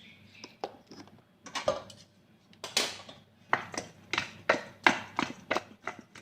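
Kitchen utensils and dishes clinking and knocking during cooking: a series of sharp, irregular strikes, sparse at first and coming faster from about halfway through.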